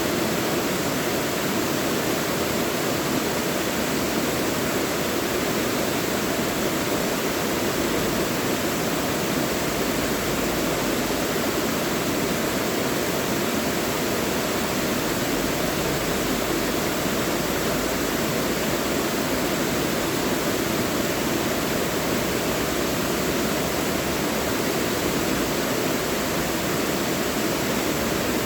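Mountain valley stream rushing over rocks, a steady, even rush of water.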